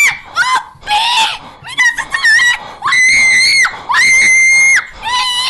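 Young people screaming: a run of high-pitched shrieks, several short ones and then two long, held screams about three and four seconds in.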